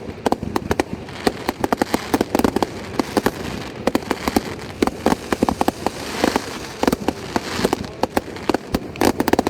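Fireworks going off in quick succession: a dense, irregular run of sharp pops and crackles, many a second, with louder bangs among them.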